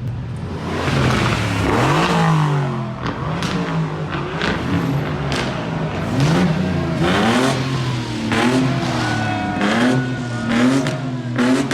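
A car engine being revved again and again over a steady idle, its pitch rising and falling with each blip.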